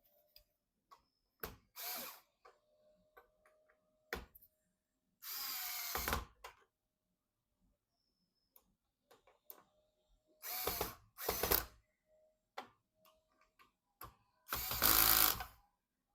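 Small electric screwdriver whirring in four short bursts of about a second each, driving screws, with light clicks and taps of handling between.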